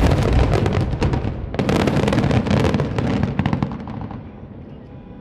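Finale barrage of aerial fireworks: a rapid, dense run of overlapping bangs and crackles with a heavy low rumble, with a brief lull about a second and a half in, then dying away after about four seconds.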